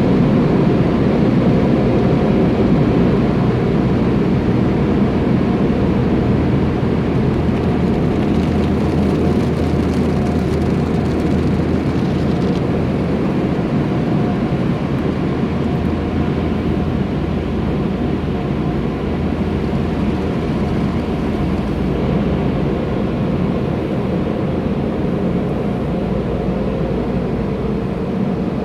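Car wash air dryer blowers running with a loud, steady, jet-like drone, easing off slightly toward the end.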